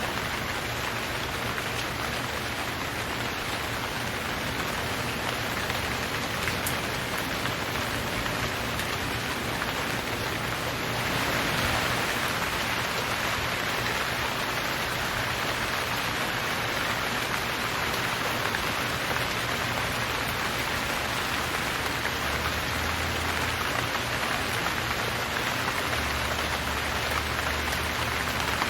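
Steady rain falling, a dense even hiss of many drops, growing a little louder about eleven seconds in.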